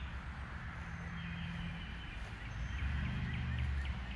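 Outdoor background: a low steady rumble that swells briefly near the end, under faint high chirps repeating a few times a second.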